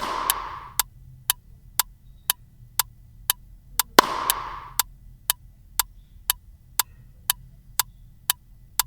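Even clock-like ticking, about two ticks a second, as of a quiz countdown timer. Two short hissy swells come with it, one at the start and one about four seconds in.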